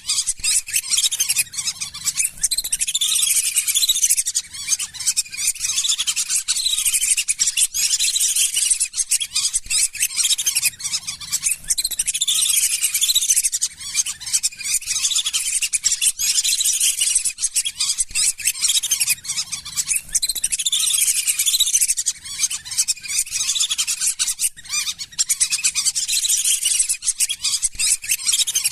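A flock of lesser whistling ducks calling without a break: a dense chorus of high, repeated whistles, with calls overlapping throughout.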